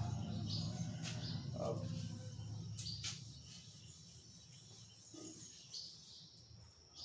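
Birds chirping faintly in short high calls every second or two, over a low hum that fades away during the first few seconds, with a couple of soft clicks.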